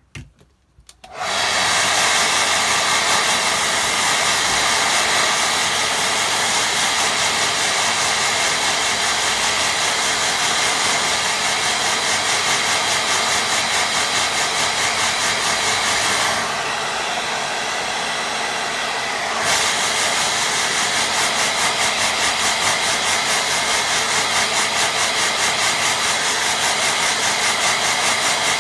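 Hair dryer switched on about a second in and blowing steadily to dry wet watercolour paint. The air sound turns duller and slightly quieter for a few seconds partway through, then comes back to full strength.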